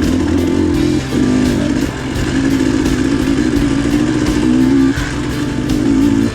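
Two-stroke dirt bike engine revving up and down as it rides singletrack, with the throttle briefly dropping off about a second in and again near the five-second mark.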